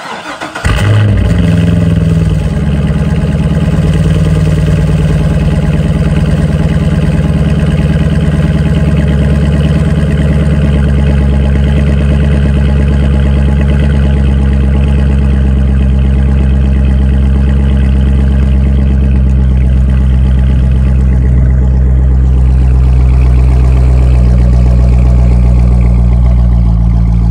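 Cold start of a C6 Corvette Grand Sport's 6.2-litre LS3 V8 on a morning of about 40°F. The starter cranks briefly and the engine catches within a second and flares up. About two seconds in it settles into a steady cold idle, heard from behind the quad exhaust tips.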